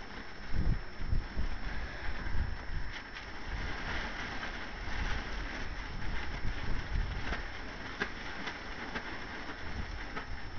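Wind rumbling in gusts on the microphone, with a tarp rustling and flapping in the wind and a few light clicks.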